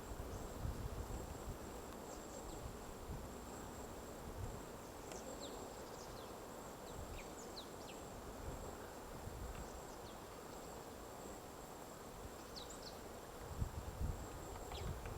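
Faint short bird chirps, scattered through a quiet outdoor background with a steady high-pitched whine and low wind rumble.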